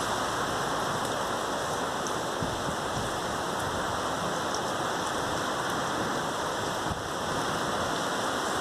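Steady rain falling, an even hiss with no gusts or distinct drops standing out.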